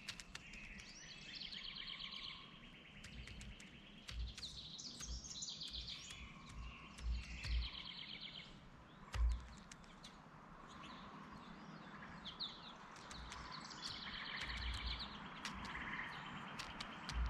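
Birds calling outdoors in short, rapid, high trills about a second long, repeated at intervals over a steady background hiss. Several dull low thumps come in between, the loudest about nine seconds in.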